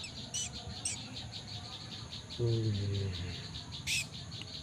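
Insects chirring in a steady, fast pulsing rhythm, with short sharp bird chirps twice near the start and once near the end. A brief low hum about two and a half seconds in is the loudest sound.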